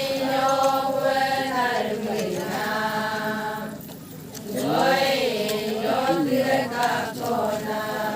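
Adi Ponung chant: voices singing long, drawn-out chanted phrases on held and wavering notes, with a short break about halfway through.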